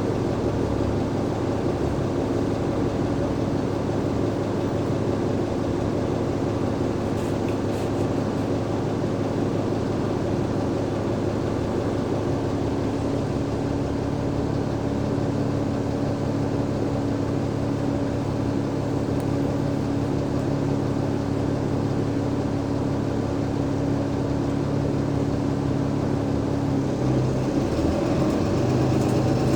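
Cummins ISL8.9 diesel engine of an Alexander Dennis Enviro500 MMC double-decker bus, heard from on board, running at a steady note. Near the end the note shifts and begins to rise as the bus starts to accelerate.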